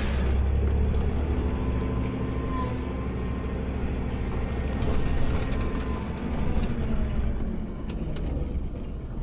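Automated side-loader garbage truck's engine running, heard from the cab as a steady low rumble. A short hiss of air comes right at the start, and a few light clicks follow later.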